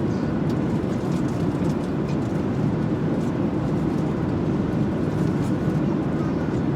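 Airliner cabin noise: a steady, even low rush that holds at one level throughout.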